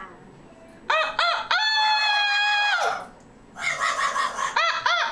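Rooster crowing twice: each crow is a few quick rising-and-falling notes followed by one long held note, and the second crow is still going at the end.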